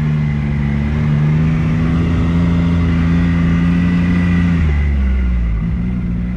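ATV engine running at a steady pace under way, easing off about four and a half seconds in and then picking back up.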